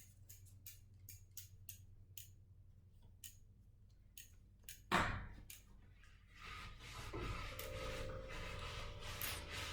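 A string of light, irregular clicks and ticks, a single louder knock about five seconds in, then a steadier low rustling noise from about six and a half seconds.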